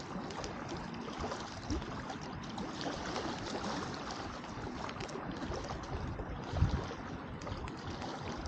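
Wood campfire burning with scattered small crackles and pops, over a steady wash of lake water lapping at the shore. A brief low rumble comes about two-thirds of the way through.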